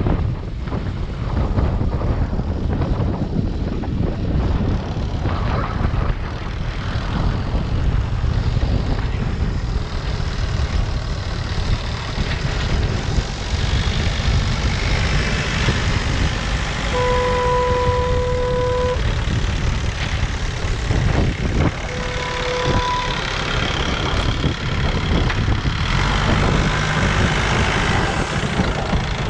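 Large farm tractor engine running with a steady low rumble. A steady warning tone sounds for about two seconds a little past halfway, and again briefly a few seconds later.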